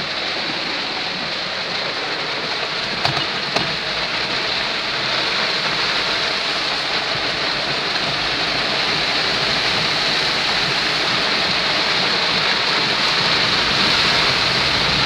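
Heavy rain pelting a car's roof and windows, heard from inside the cabin as a steady hiss that grows slightly louder. There are two brief clicks about three seconds in, and from about four seconds in a low rumble of the car driving on the wet road joins it.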